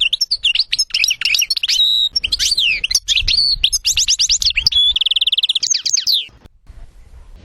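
European goldfinch singing: a fast run of varied twittering notes, with an even trill about five seconds in. The song stops a little after six seconds.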